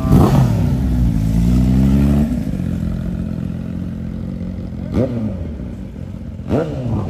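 Motorcycle engines running and revving: a sharp rev at the start, a steady engine drone that drops away after about two seconds, then quick rise-and-fall throttle blips about five seconds in and twice more near the end.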